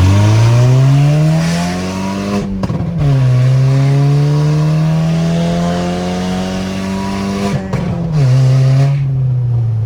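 Volkswagen Golf accelerating hard through two upshifts. The engine note climbs in each gear and drops at each shift, about two and a half and seven and a half seconds in. Loud, unmuffled exhaust that sounds like a straight-piped tractor, because the catalytic converter has broken off the pipe on both sides.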